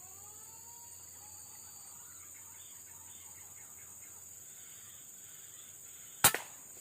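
A single shot from a Semar Neo Z PCP air rifle, a sharp crack about six seconds in that is by far the loudest sound. Before it, faint whistling bird calls rise and fall over a steady high insect hum.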